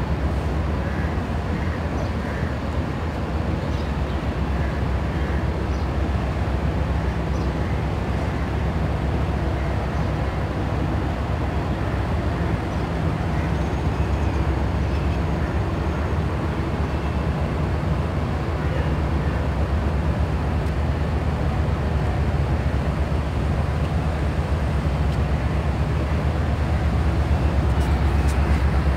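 Passenger coaches of a departing express train rolling slowly past, their wheels making a steady low rumble on the rails, a little louder near the end.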